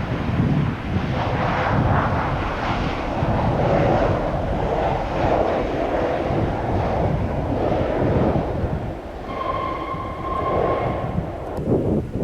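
Jet airliner passing on its landing approach: a rushing engine roar, with wind buffeting the microphone. About nine seconds in, a steady high whine rises above the roar for a couple of seconds.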